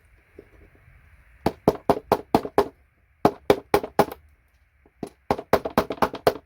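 Hammer striking a chisel to knock gold-plated connectors off a computer circuit board. There are three quick runs of sharp metallic taps, about four a second, the first starting about a second and a half in.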